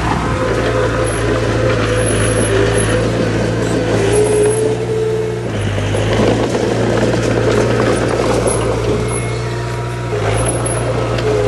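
Heavy diesel engine of earthmoving machinery running steadily, its note shifting about halfway through and again near the end.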